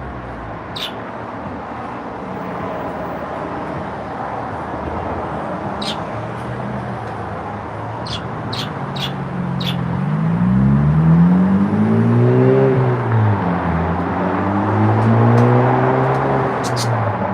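Road vehicle engine running under a steady rumble, its pitch rising and then falling twice, about ten and fourteen seconds in. A few short, high chirps sound over it.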